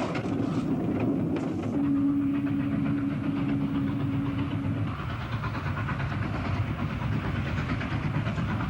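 Steam locomotive K160 running along the line with a steady rumble and rail clatter. About two seconds in, a steady low whistle note sounds and holds for about three seconds.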